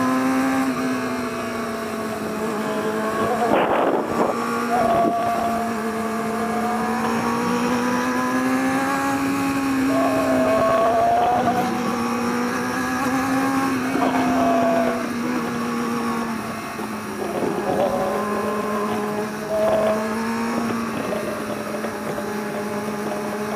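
Motorcycle engine running under way, its pitch rising and falling again and again with the throttle.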